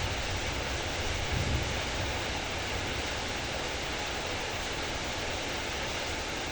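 Heavy rain falling in a steady, even hiss. A low rumble of thunder dies away in the first couple of seconds.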